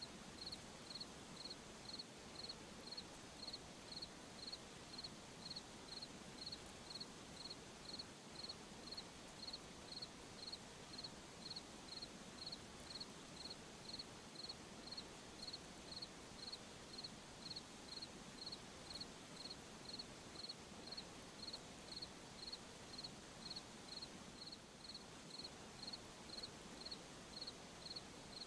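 A cricket chirping steadily in an even rhythm, about two high-pitched chirps a second, over a faint steady hiss of night ambience.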